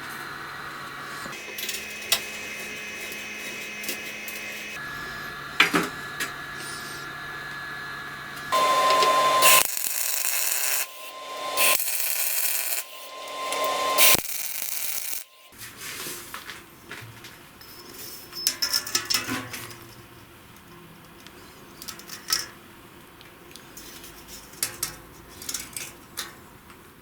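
Workshop tool sounds in short segments that change abruptly: light knocks and rubbing, with a few seconds of loud, hissing power-tool noise near the middle.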